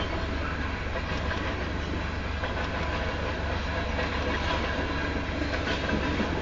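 Freight train of covered grain hopper cars rolling past, steel wheels on rail making a steady low rumble.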